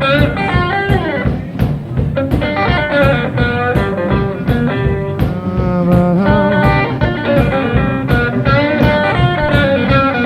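Live blues-rock band vamping, with an electric guitar playing a lead line of bent notes over steady drums and bass.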